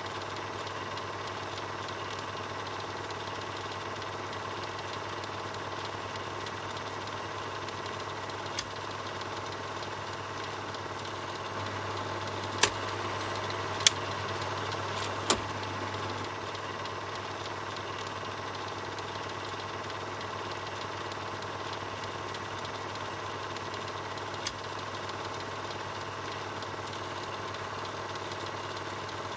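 Film projector running: a steady mechanical whir and clatter over a low hum, broken by a few sharp clicks, three of them close together in the middle.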